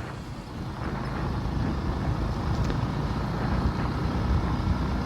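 Motorcycle engine running under way, a steady low rumble that grows a little louder about a second in.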